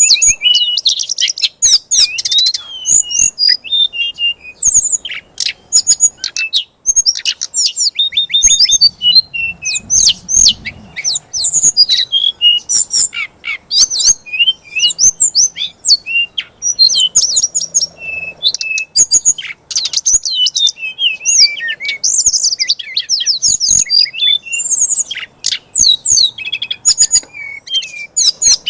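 A songbird in fighting mode sings a fast, unbroken string of high chirps, whistled glides and sharp clicking notes.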